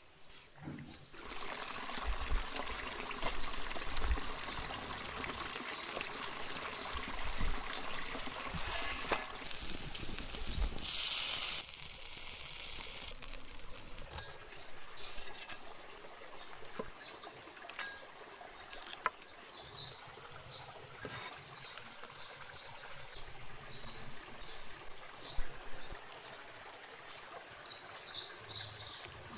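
Water pouring and trickling for about the first twelve seconds, then birds chirping repeatedly over a quieter background.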